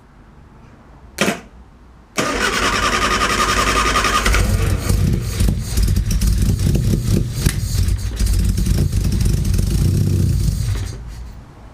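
Classic Mini's A-series engine being started: a short sharp sound about a second in, then the starter cranks for about two seconds before the engine catches and runs with uneven revs. The engine sound falls away near the end.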